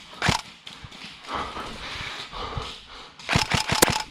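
Rapid sharp snaps of airsoft guns firing: one just after the start and a quick string of about five near the end. Between them are rustling, thudding footsteps of a player moving through the woods.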